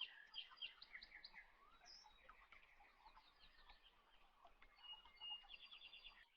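Near silence, with faint bird chirps and trills in the background.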